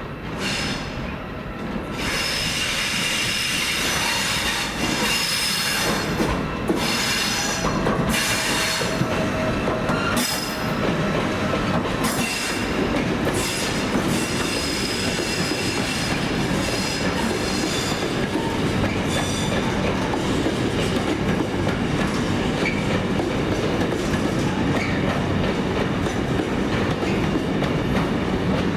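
Train rolling past on the track, its wheel flanges squealing on and off for most of the first twenty seconds over a steady rumble of wheels on rail.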